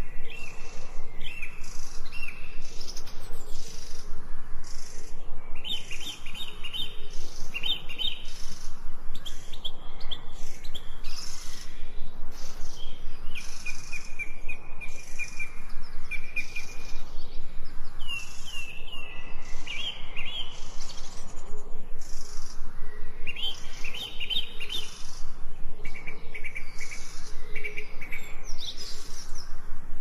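Songbirds chirping and singing in short whistled phrases and trills, over a fast, even pulsing in the background.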